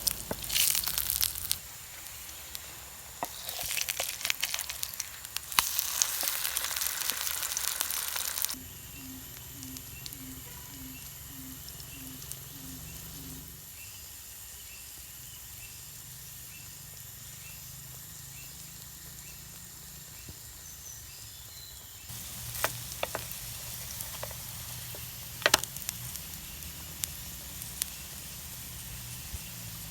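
Food sizzling and crackling in a hot frying pan for the first eight seconds or so. It then cuts to a quieter bed of steady insect chirring, with a few sharp clicks near the end.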